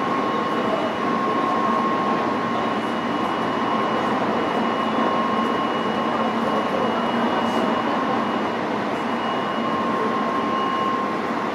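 Tobu 9050 series electric train running at steady speed, heard inside the passenger car: an even rumble of wheels on rail with a steady high hum held at one pitch.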